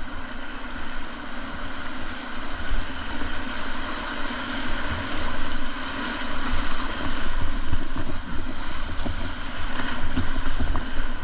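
Whitewater of a river rapid rushing loudly around a kayak, growing louder as the boat runs into it, with wind buffeting the microphone.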